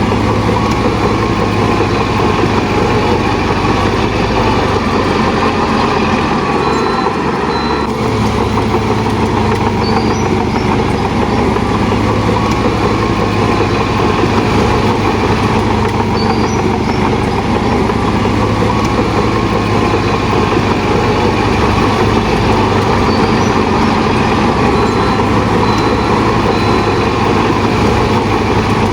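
Heavy diesel earthmoving machinery running: a large engine working steadily, its pitch rising and falling slightly.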